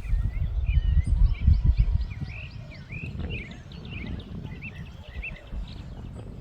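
Birds chirping and calling over and over, short whistled notes, over a low rumble of wind on the microphone that is strongest for the first two seconds.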